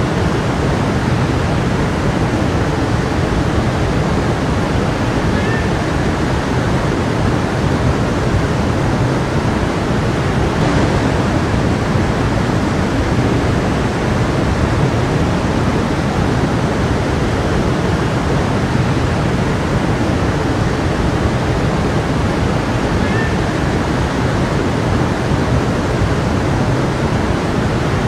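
Creek water flowing, a steady, unbroken rushing.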